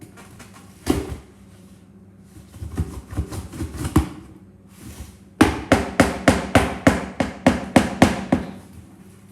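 A few scattered knocks, then a quick, evenly spaced run of about a dozen sharp strikes, roughly four a second, in the second half.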